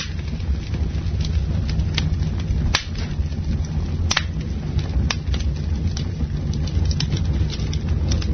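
Campfire burning: a steady low rumble with irregular sharp crackles and pops of burning wood, the loudest snaps a little under 3 and about 4 seconds in.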